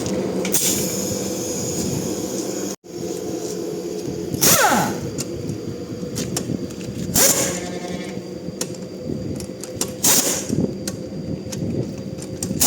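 Pneumatic shop tool over a steady machine hum: four short bursts of air hiss a few seconds apart, two of them followed by a falling whine as the tool spins down.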